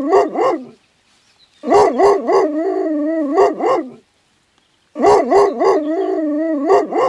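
A dog yipping and howling. The same call repeats: a few short yelps and then a longer wavering howl, heard twice in full after the end of an earlier one.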